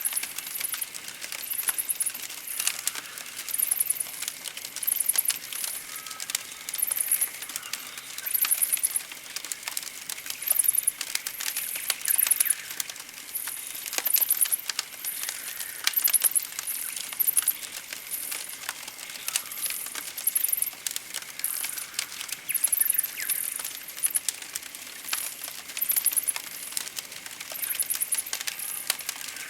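Campfire crackling and popping with many sharp little snaps, under high-pitched chirps that repeat about once a second.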